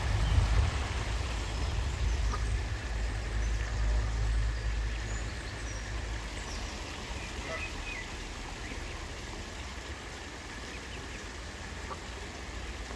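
Outdoor ambience: a low rumble that fades after about six seconds, under a steady hiss, with a few faint short bird calls.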